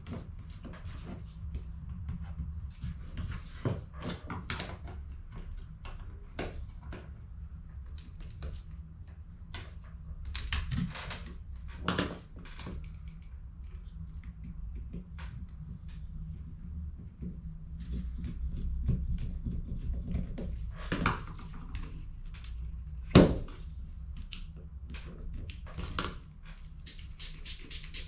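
Hands working on HP CE285A toner cartridges: scattered plastic clicks, taps and knocks, the sharpest about two-thirds of the way through, over a steady low hum.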